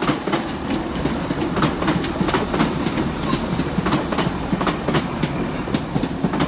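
Class 166 diesel multiple unit running into the station, its wheels clacking repeatedly over rail joints and points under a steady rumble.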